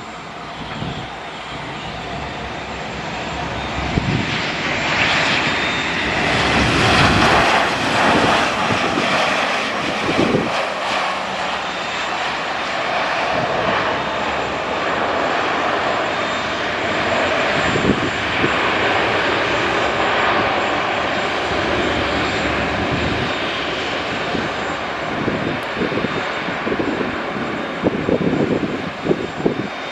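Airplane engines running loud, swelling over the first several seconds and then holding steady.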